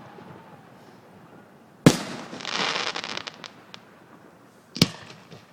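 Aerial firework shells bursting overhead: a sharp bang about two seconds in, followed by about a second of crackling, then another bang near the end.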